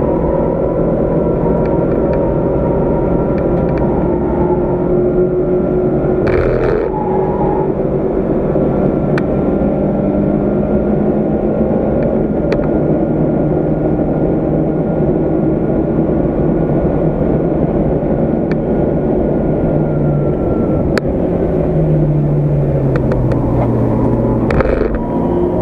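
Volkswagen Golf MkII GTI 16v's four-cylinder engine running hard at speed on track, heard from inside the cabin, with tyre and road noise beneath it. The engine note holds steady through most of the stretch. A short burst of noise comes about six seconds in, and the pitch drops noticeably around twenty-one seconds in as the revs fall.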